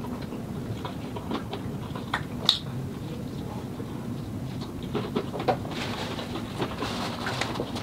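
Close-up eating sounds of a person chewing a burger: wet chewing and scattered sharp mouth clicks, the sharpest about two and a half seconds in. Near the end a paper napkin rustles.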